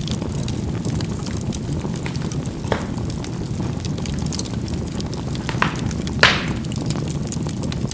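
Charcoal burning in a fireplace: a steady low rumble of burning with faint crackles and three sharp pops as the charcoal bursts, the loudest about six seconds in.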